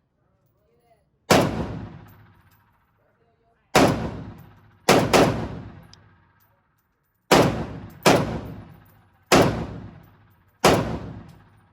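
Seven single rifle shots from an FN SCAR, fired at uneven intervals, each sharp crack ringing out with a long echoing decay.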